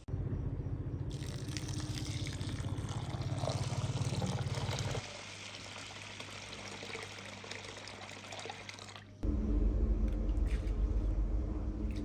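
Water pouring and splashing, with a low hum under the first half. The sound changes abruptly a few times, and a louder low rumble takes over near the end.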